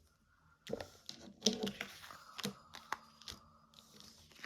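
Tarot cards being handled: a few short, sharp rustles and snaps of card stock, roughly one a second.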